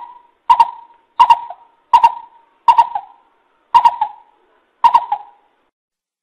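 Greater coucal calling: six short, sharp notes of one pitch, repeated at even intervals of under a second, each with a quick double onset. It is a lure recording used to draw coucals to a trap.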